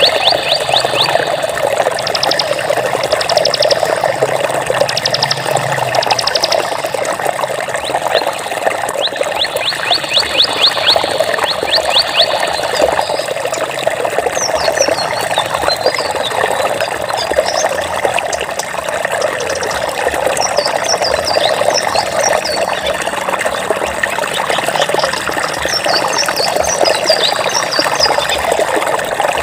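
Flowing water running steadily, like a stream, with high chirping calls over it: rapid trilled runs of notes in the first dozen seconds, then scattered short chirps.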